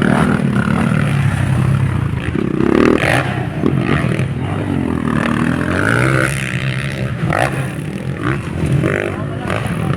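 Motocross bike engines revving hard as riders race the track, the pitch climbing and dropping as they shift and throttle through the course.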